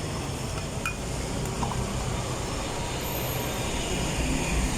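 Steady outdoor noise with a low rumble: road traffic in heavy rain.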